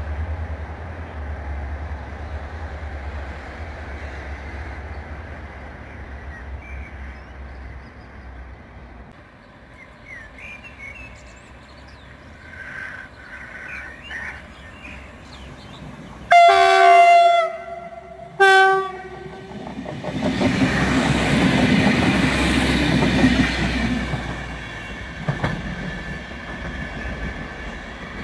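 Train horn sounding twice, a blast of about a second and then a short one, followed by a train passing with wheel and rail noise. A low rumble sits under the first few seconds.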